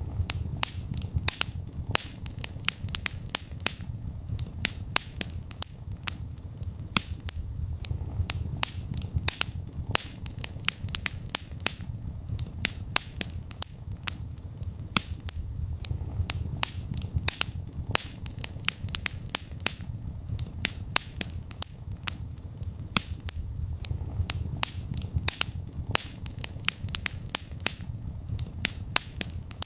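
Wood fire in a fireplace crackling: many sharp, irregular pops and snaps, several a second, over a steady low rumble of the flames.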